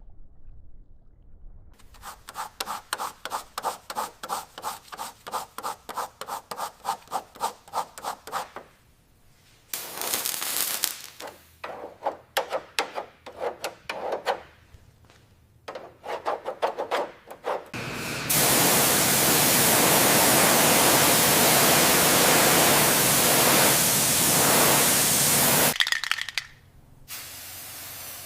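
Rhythmic back-and-forth rubbing strokes, about three a second, of hand sanding or scraping during bodywork, turning irregular and choppy. About two-thirds of the way in, a loud steady spray hiss starts and runs for about eight seconds before cutting off.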